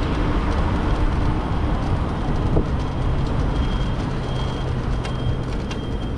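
Steady wind rush and city traffic noise picked up while riding an electric motorbike through the streets, with a low vehicle hum in the middle.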